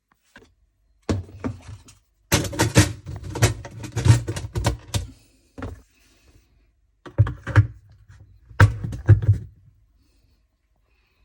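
Clattering knocks of hard parts being handled on a dishwasher, in several short bursts with pauses between.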